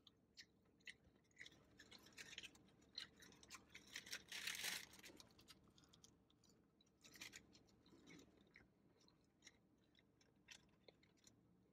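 Faint close-up chewing and mouth sounds of a person eating, with scattered small clicks and a louder noisy burst about four to five seconds in, and another around seven to eight seconds in.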